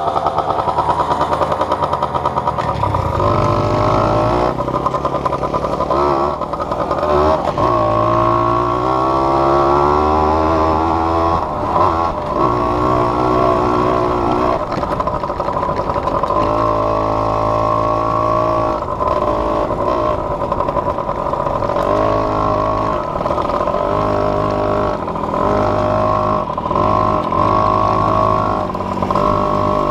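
Small off-road vehicle engine being ridden, its pitch climbing and dropping back again and again as the throttle is worked and it changes speed.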